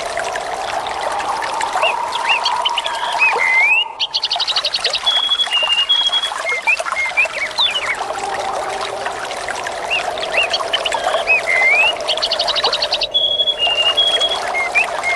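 Trickling, flowing water with small birds chirping and trilling over it. The same stretch of birdsong repeats about every nine seconds, with a brief dip in level before each repeat, as in a looped ambience track.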